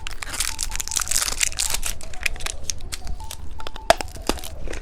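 Plastic candy packaging crinkling and rustling as it is handled, with scattered sharp clicks and taps.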